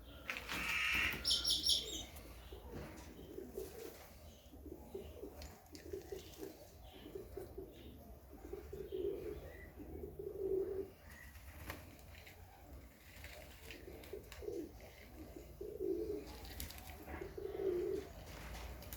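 Serbian highflyer pigeons cooing over and over, with a short high-pitched squeak about a second in.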